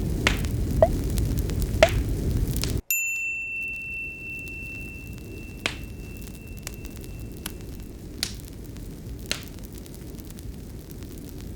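Fire crackling over a loud low rush that cuts off abruptly about three seconds in. At that moment a single bell-like chime strikes and rings out, fading over several seconds. Sparse, quieter crackles continue after it.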